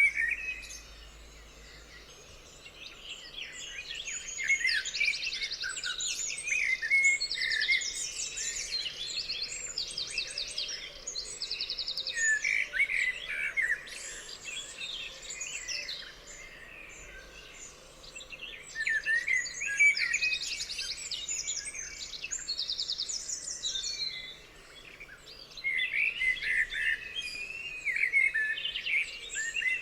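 Songbirds singing, overlapping chirps and whistles with repeated fast trills, broken by a few short lulls.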